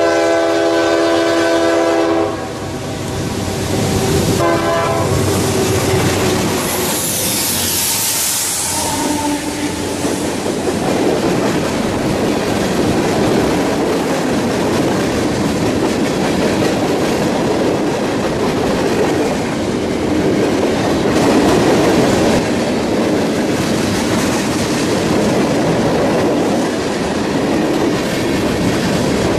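CSX diesel freight train sounding its horn on approach: one long blast that stops about two seconds in, then a short one about four seconds in. The locomotive passes with a loud rush around eight seconds in, followed by the steady rumble and clickety-clack of freight cars rolling by close at speed.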